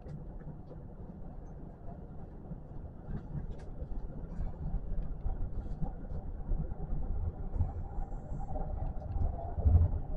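Kintetsu electric train running, heard from inside the front car: a steady low rumble of wheels on rail with scattered light clicks, and a faint whine in the second half.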